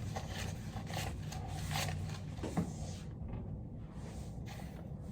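Paper banknotes being handled and counted out one by one, with soft irregular rustling and rubbing, over a steady low hum. About two and a half seconds in there is one short, sharper sound.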